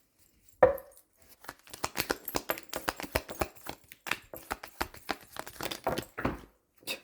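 Tarot deck being shuffled by hand: a fast run of sharp card taps and slaps, with cards spilling out of the deck onto the floor. One loud thump just under a second in.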